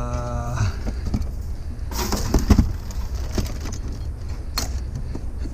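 Scattered clicks and metallic knocks from hand clippers and scrap metal being handled, the loudest about halfway through, over a steady low rumble. A short pitched tone fades out in the first half-second.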